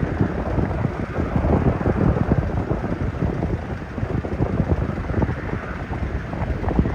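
Four jet engines of a Boeing 747-400 at takeoff thrust: a loud, deep, rough rumble.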